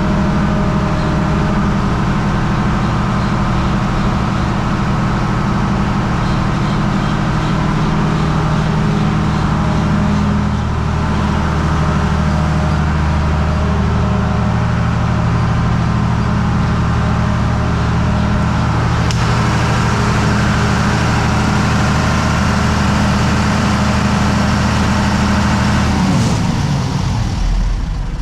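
Diesel generator engine running at a steady speed. About two seconds before the end its pitch falls away as it begins to run down.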